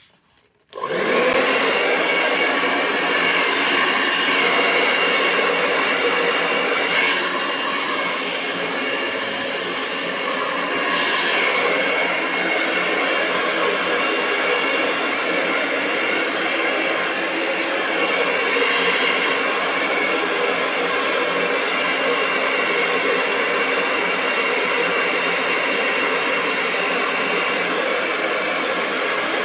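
Electric hair dryer switched on about a second in, then running steadily with a continuous blowing of air.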